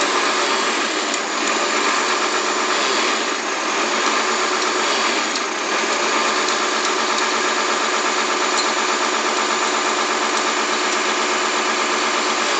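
Komatsu PC300-8 excavator's six-cylinder diesel engine running steadily on a test run after a full overhaul.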